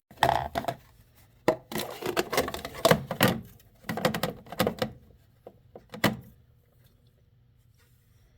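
Clatter of things being handled: a run of knocks, clicks and rustles that stops about six seconds in.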